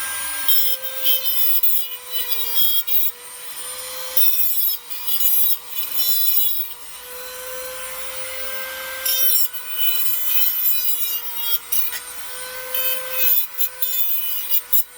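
High-speed rotary tool running steadily with a high whine while it grinds the steel of old bent valves in a Volkswagen air-cooled cylinder head, in four harsh stretches of a few seconds each. The valves are being cut down so they can be pulled out of the head.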